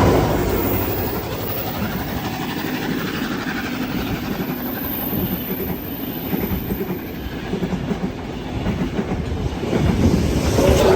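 A train passing close by with a dense rumble and a rapid, irregular clatter of wheels over the rails, swelling louder near the end.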